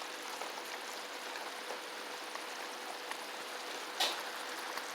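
Steady hiss of rain falling, with a single sharp tap about four seconds in.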